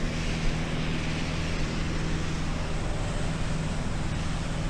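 Light aircraft's piston engine and propeller droning steadily in cruise, heard inside the cockpit as a constant hum over a wash of cabin and wind noise.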